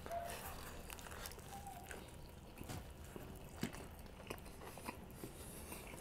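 A person quietly chewing a mouthful of burrito with the mouth closed, with faint wet mouth clicks about once a second in the second half.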